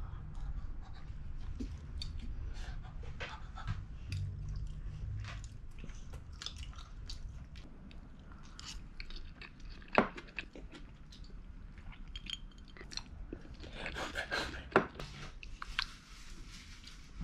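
Close-up chewing and biting into pan-fried dumplings, with many small wet clicks of the mouth, and one sharp click about ten seconds in.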